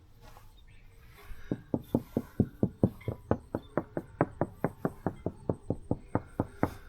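Rapid knocking on a sailboat's hull, about five blows a second for several seconds, sounding it out for hollow spots. The hull sounds solid.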